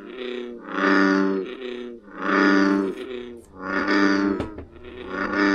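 Recorded frog calls played through a small speaker: a series of deep, twangy calls, each about a second long, repeating roughly every second and a half.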